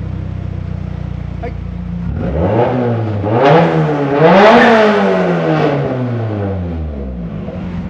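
Nissan SR20DET turbocharged inline-four idling, then revved twice, the second rev higher, before the revs fall slowly back to a steady idle.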